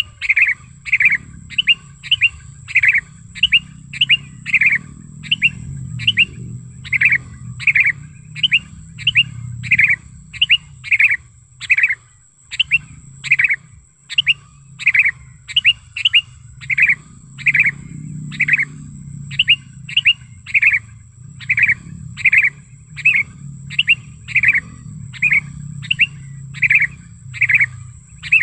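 Sooty-headed bulbul (kutilang) calling in a steady run of short, sharp chirps, about one and a half a second, used as a lure call. A faint steady high-pitched tone and a low rumble sit underneath.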